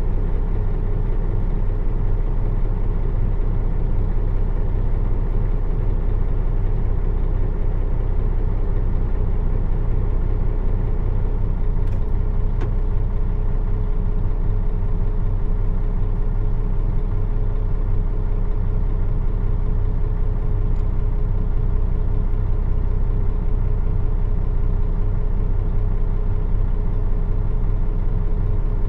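Nissan Diesel PF6 diesel engine of a city bus running steadily, its pitch and level unchanging throughout.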